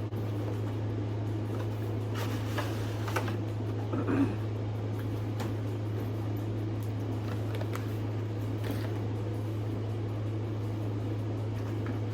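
A steady low electrical hum throughout, with scattered brief crinkles and clicks of doll packaging being handled and opened, the loudest a few seconds in.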